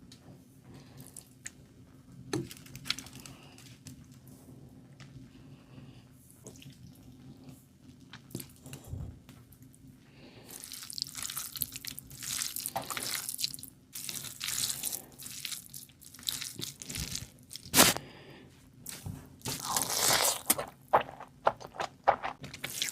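Close-up eating sounds: wet chewing, lip smacking and small clicks of a person eating curry and rice. The sounds are sparse at first and grow louder and busier from about ten seconds in, with one sharp click about eighteen seconds in.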